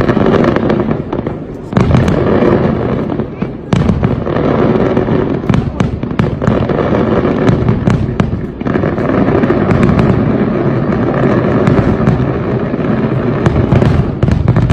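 Fireworks display: a dense, continuous barrage of aerial shell bursts and crackling reports over a steady low rumble. It lets up only for brief moments.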